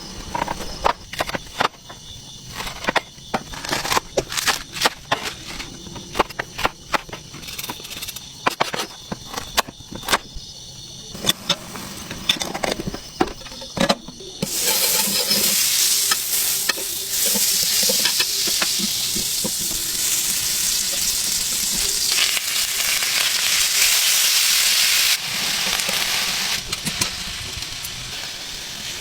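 A run of sharp clicks and knocks. About halfway through, a loud steady sizzle starts suddenly as food fries in a hot pan, and it drops in level near the end.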